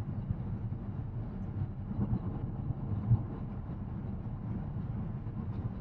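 Steady low road and tyre rumble inside the cabin of a moving Tesla Model X Plaid, an electric car with no engine note, with a few small bumps along the way.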